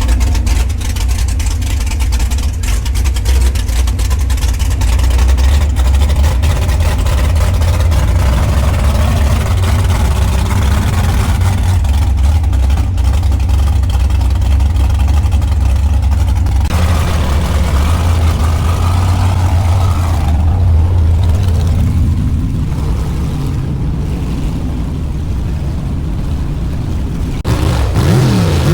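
A truck engine running loud with a heavy low rumble. The sound changes abruptly twice, about two-thirds of the way through and again near the end.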